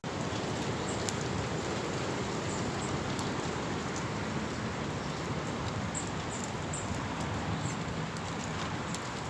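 Steady rain falling: an even hiss with a few small sharp ticks.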